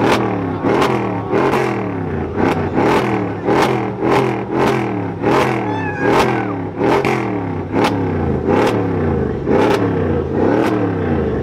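A performance car's exhaust revved in rapid, repeated throttle blips, about one and a half a second. Each blip snaps up sharply with a crack and the pitch falls away as the revs drop.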